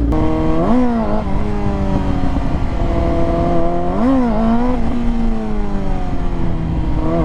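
Motorcycle engine revved hard twice, about a second in and again at about four seconds, the pitch jumping up and dropping back each time before sinking slowly as the bike rolls on. These are wheelie attempts under a clutch that the rider says is slipping.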